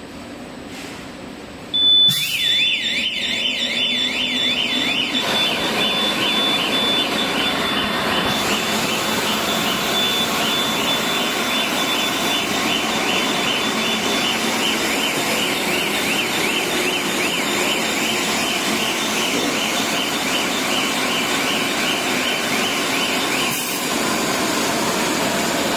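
Electronic alarm siren sounding, a safety alarm in an explosion-proof room on an aerosol filling line. It starts suddenly about two seconds in: a steady high beep, which fades about halfway through, and a rapidly warbling wail that sweeps up and down. It stops shortly before the end, over a steady machinery hum.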